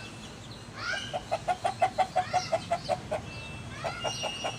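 A bird calling in a rapid run of short clucking notes, about six a second for two seconds, then a second shorter run near the end.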